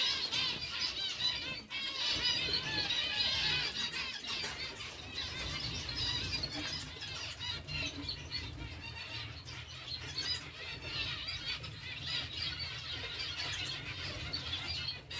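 Many small birds in a breeding aviary chirping and chattering continuously, their calls overlapping densely.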